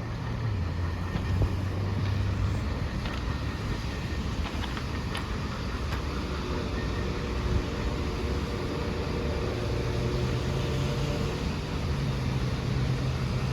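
Freight cars of a long train rolling past on the rails, a steady rumble and rail noise with a low hum underneath.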